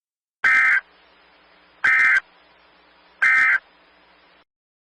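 Emergency Alert System end-of-message tones: three short, identical bursts of warbling SAME digital data, each under half a second and about a second and a half apart, closing the severe thunderstorm warning broadcast.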